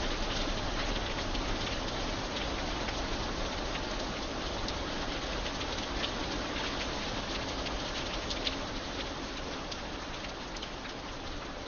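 Steady rain falling: a dense, even hiss with many single drops ticking through it.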